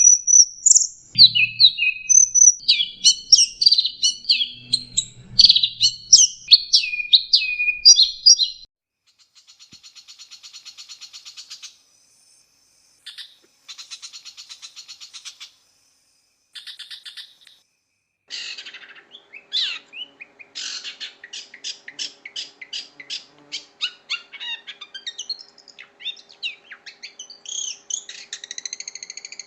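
Long-tailed shrike (cendet) singing a rapid, varied song of loud chirps and whistles. About nine seconds in it breaks into a fast buzzing trill and short separate passages with brief gaps. In the second half the notes run on over a faint steady hum.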